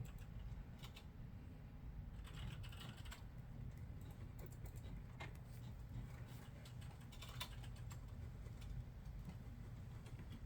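Computer keyboard typing: faint key clicks in short irregular bursts over a low steady room hum.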